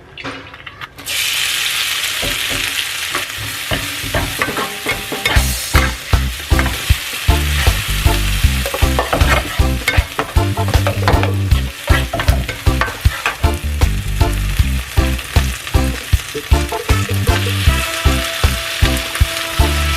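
Food sizzling as it is stir-fried in hot oil, starting about a second in. From about four seconds on, a spatula scrapes and knocks against the pan again and again.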